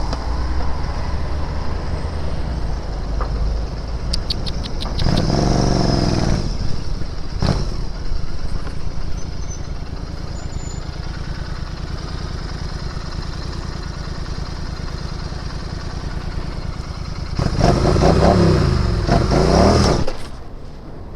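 Royal Enfield Interceptor 650's parallel-twin engine and exhaust running while riding in traffic, revving up through the gears twice: once about five seconds in, and again for a longer stretch near the end before easing back off.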